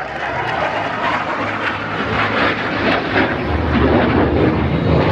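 Single-engine F-16 fighter jet flying past, its engine noise swelling louder toward the end.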